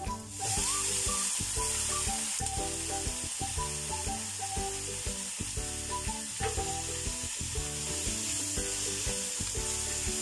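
Bok choy dropped into a hot oiled wok, bursting into a loud sizzle just under half a second in, then frying with a steady sizzle as it is stir-fried.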